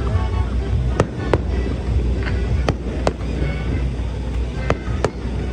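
Fireworks shells bursting: six sharp bangs, coming in three pairs about a third of a second apart, over a steady low rumble.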